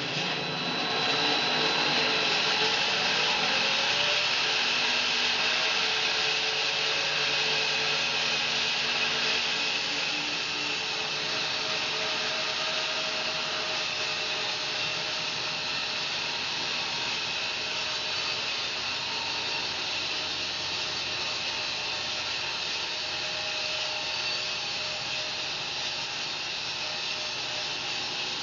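Home-built bandsaw mill sawing through a fir log: a steady, loud sawing noise that eases slightly as the cut goes on.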